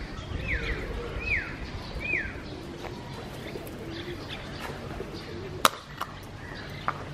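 A bird chirps three times in quick succession, curved calls a little under a second apart, over faint low cooing of feral pigeons. A single sharp click comes about five and a half seconds in.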